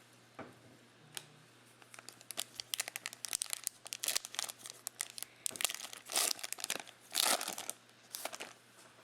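Foil trading-card pack wrapper being torn open and crinkled, with irregular crackling and rustling that comes in after about two seconds and then dies down near the end.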